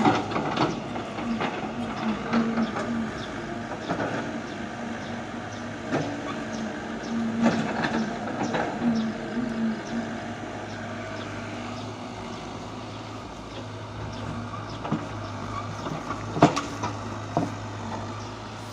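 Heavy machinery's engine running steadily, with scattered knocks and clanks. Its hum drops to a lower pitch about halfway through.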